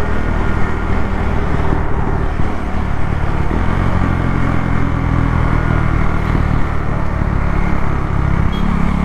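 KTM Duke 390's single-cylinder engine running under way at a fairly steady pitch, with the engine note shifting near the end, over a steady rush of wind and road noise.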